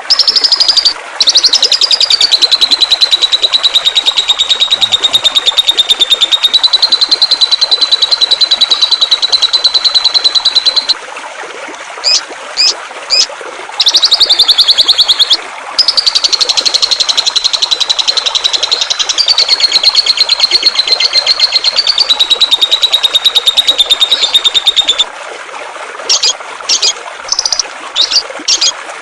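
A songbird on a masteran (tutor) recording sings long, very fast, buzzy trills lasting up to about ten seconds, broken by short, sharp chirps, over the steady rush of flowing water.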